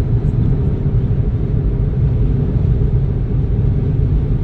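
Steady low rumble of a car driving, with a faint engine hum running under it.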